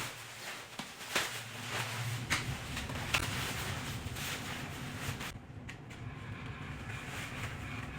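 A steady low hum, typical of the battery fan that blows up an inflatable costume, starts about a second in. It runs under rustling and a few sharp knocks from the suit being moved.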